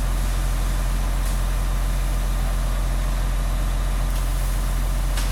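Fire engine's engine running steadily at idle, a constant low drone with an even hiss above it.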